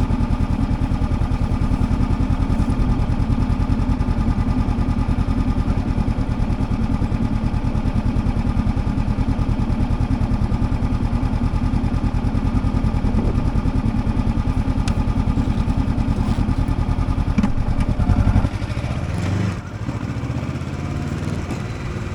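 Motorcycle engine idling with a steady, fast pulsing beat. About three-quarters of the way through, the beat changes abruptly and the engine note rises.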